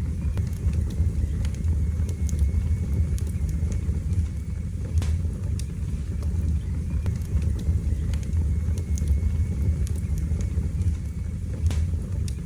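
Wood fire burning in a fireplace: a steady low rumble of flames with scattered sharp crackles and pops, one of the strongest about five seconds in.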